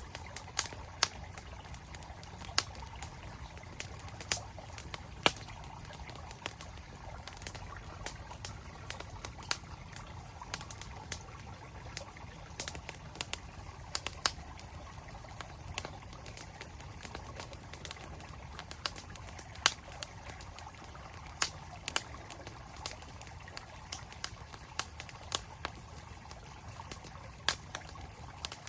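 Campfire crackling with irregular sharp pops and snaps, over the steady rush of a flowing mountain stream.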